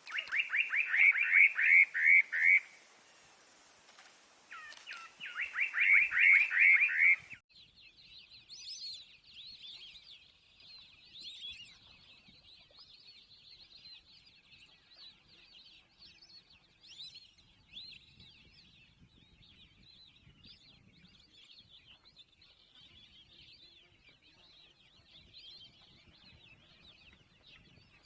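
Animal calls: two loud bouts of rapid, evenly repeated high-pitched chirps, each lasting two to three seconds. About seven seconds in the recording changes abruptly to a fainter, continuous chattering of many high calls.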